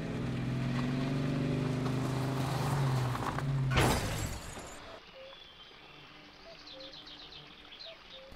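A car engine running steadily, ending in a sudden loud burst of noise about four seconds in. After that, birds chirping faintly.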